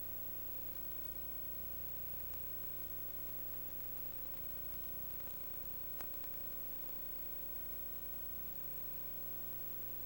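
Steady electrical hum and hiss with a faint steady tone, broken once by a single sharp click about six seconds in.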